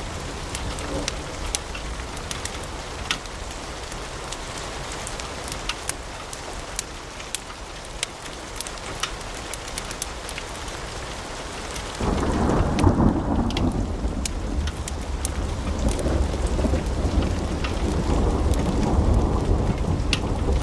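Wood fire in a fireplace crackling: many sharp pops and snaps of burning logs over a steady hiss. About twelve seconds in, a deeper low rumble comes in abruptly and continues under the crackle.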